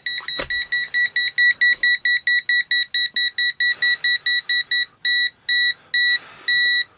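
Handheld gas detector sounding its alarm, a rapid high-pitched beeping about four to five beeps a second, as lighter gas reaches its sensor; near the end the beeps change to longer, more widely spaced tones.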